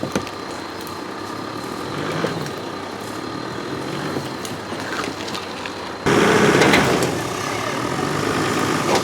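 Off-road vehicle engine running, with a steady low rumble; about six seconds in the sound turns suddenly louder and brighter.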